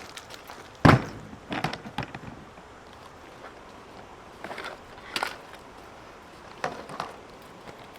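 Knocks and clatters of camping gear being handled and set down: a sharp knock about a second in, the loudest, then several smaller clatters in groups.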